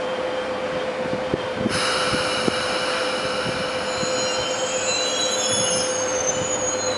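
A passing train, its wheels squealing on the rails: a high, wavering squeal of several tones sets in about two seconds in and runs on, over the rumble and clicks of the wheels, with a steady hum beneath.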